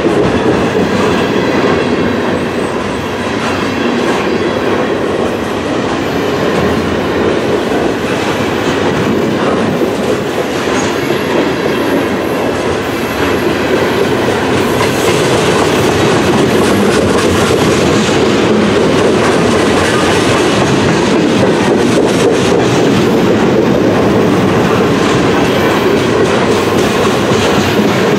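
A freight train's lumber-loaded centerbeam flatcars rolling past, making a steady, loud rumble of steel wheels on the rails.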